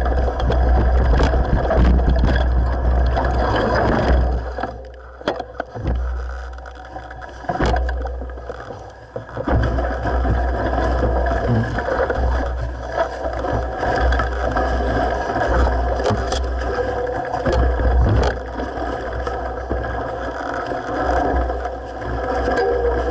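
Mountain bike running down a dirt forest trail: wind rumble on the microphone, tyre noise and the bike rattling and knocking over bumps, easing off for a few seconds about a quarter of the way in.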